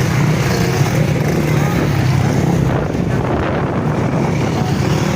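Motocross motorcycle engines running on the track, a loud, steady engine noise.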